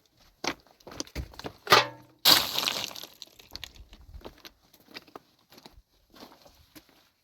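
A sharp ringing knock, then a loud crash with a rattle that dies away over about a second, amid scattered lighter clicks and knocks.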